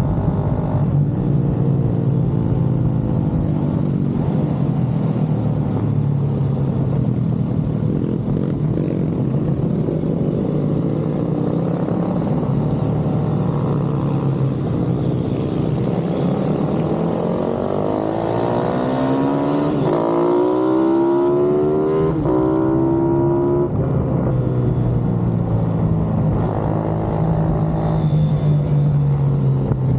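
Several pit bike engines running hard on a race track, their pitch rising and falling as they accelerate and shift. About two-thirds of the way in, one engine's note climbs steeply, then cuts off abruptly.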